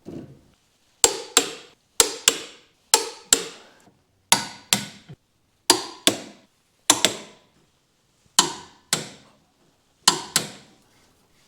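Hammer striking metal in pairs of quick blows, each blow ringing briefly, about eight pairs in all.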